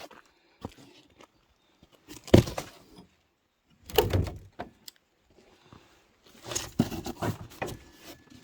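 Thuds, knocks and rustling from boxes and cardboard being handled and set down, in three separate bouts, the sharpest about two and a half seconds in.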